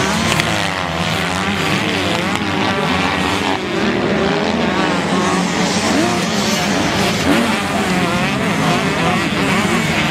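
Several motocross bikes racing, with many engines revving up and down at once.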